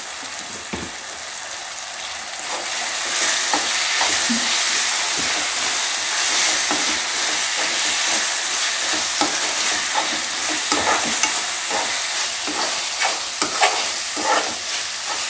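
Chopped vegetables and chilli powder frying in a metal kadai, a steady sizzle that gets louder about two and a half seconds in. A slotted steel spoon scrapes and clicks against the pan as the mix is stirred, more often toward the end.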